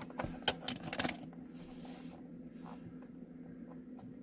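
Light clicks and rustling from handling a small die-cast toy car, with the sharpest clicks about half a second and a second in.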